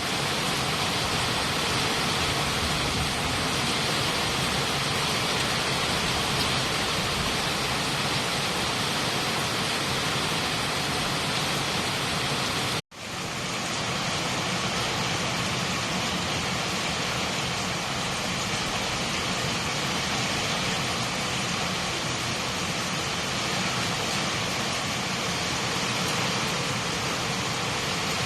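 Heavy typhoon rain falling steadily, an even rushing hiss. About halfway through it cuts out for an instant and comes straight back.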